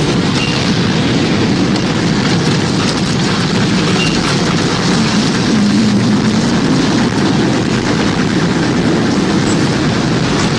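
Tornado wind sound effect: a loud, steady, low rumbling roar of wind without breaks.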